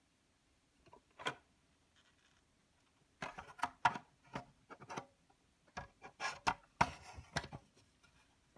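Clicks, knocks and rubbing of a yogurt maker's parts being handled and taken apart by hand. A single click about a second in, then a quick, irregular run of clicks and knocks from about three seconds in until near the end.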